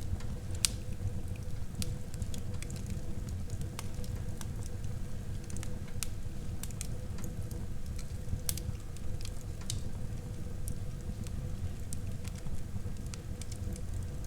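Wood fire burning in a fireplace: irregular crackles and pops over a steady low rumble of the flames, with a sharper pop about half a second in.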